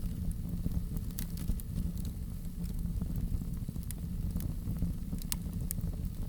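Wood fire crackling: a steady low rumble of burning with sharp pops and snaps scattered through, the strongest about a second in and about five seconds in.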